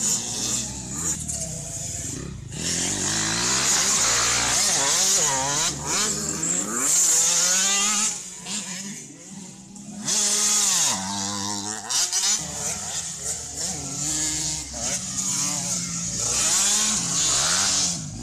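Several small two-stroke motocross bikes racing, their engines revving up and down over and across one another as they pass.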